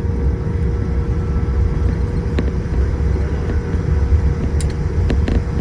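Steady low cabin rumble inside a Boeing 787-8 airliner, with a constant hum, and a few brief clicks near the end.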